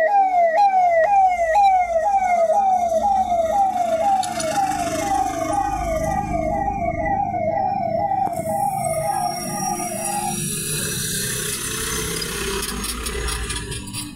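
Emergency vehicle siren wailing in quick repeated sweeps, about two a second. It cuts off about ten seconds in, leaving steady vehicle and street noise.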